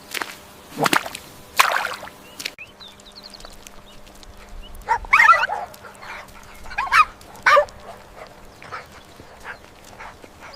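Short animal calls, three brief yelp-like bursts in the middle, among sharp snaps and clicks near the start.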